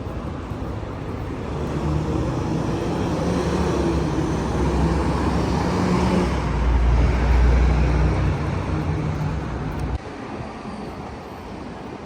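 Vehicle rumble that swells to a loud low peak partway through, then cuts off suddenly to quieter background noise near the end.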